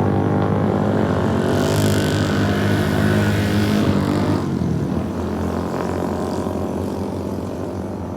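An engine running steadily with a low drone, loudest in the first half and easing off, then cutting off abruptly at the end.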